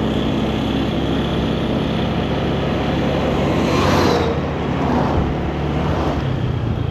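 Motor scooter engine running steadily while riding, with road and wind noise. About four seconds in, a louder swell rises and falls in pitch.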